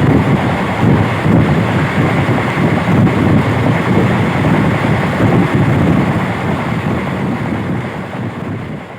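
Steady rumble of a moving train with wind buffeting the microphone, fading away over the last couple of seconds.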